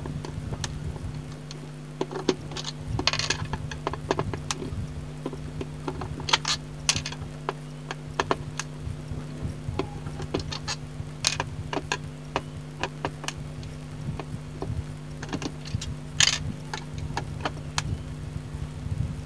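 Scattered sharp clicks and short light clatters of small keyboard parts being unclipped and set down, over a steady low hum.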